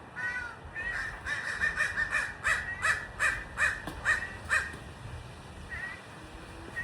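Birds calling outdoors: a run of harsh repeated calls, about two a second, loudest in the middle.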